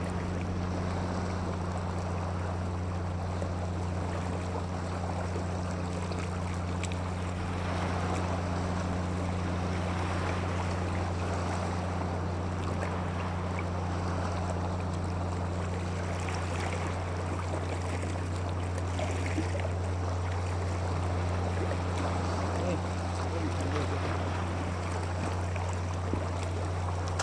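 A steady low hum, like a motor running at constant speed, under an even rushing of water.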